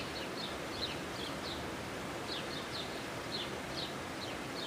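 A small bird chirping repeatedly: short, high chirps that slide downward, about two a second, over a steady outdoor hiss.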